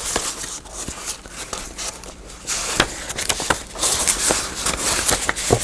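Paper being handled: rustling and crinkling in short patches, with a few light taps and clicks.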